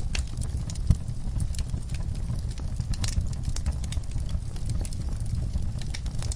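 Wood fire crackling with irregular sharp pops, one louder pop about a second in, over a steady low rumble.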